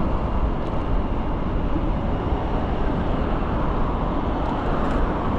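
Steady wind rush and road noise while riding a bicycle, with a constant low rumble of wind buffeting the microphone.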